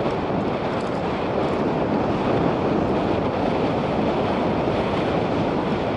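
Steady wind rush on the microphone of a moving motorcycle, mixed with the bike's running and road noise.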